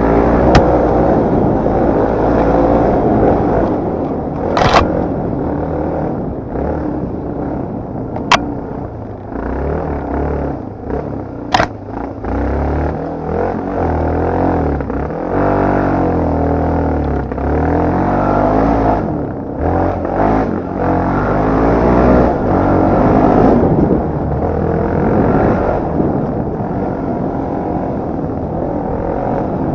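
Dirt-bike engine on a motocross/enduro motorcycle being ridden, its pitch rising and falling as the throttle is worked, with a few sharp clicks along the way.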